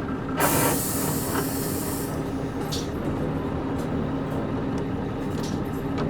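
Nissan Diesel KC-UA460LSN bus running on its PG6 diesel with a steady hum, and a loud hiss of compressed air from the bus's air system starting about half a second in and lasting about a second and a half. A few faint short clicks and creaks follow.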